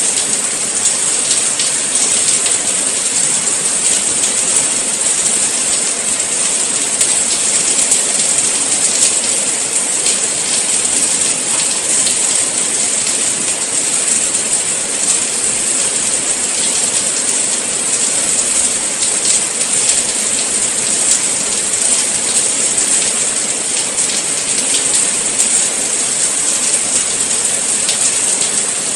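Steady rain falling: an even, unbroken hiss with a dense patter of drops, with no lulls or changes.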